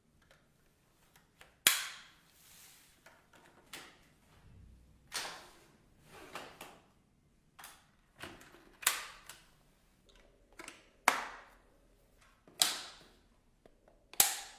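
A series of about ten sharp clicks or snaps at irregular intervals, each dying away quickly.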